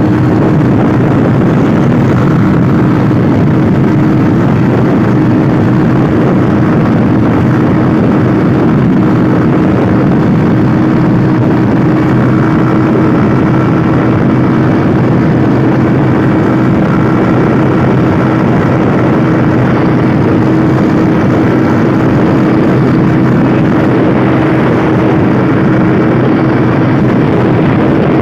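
Motorcycle riding at a steady speed: an even engine note under a constant rush of noise, with no change in pace.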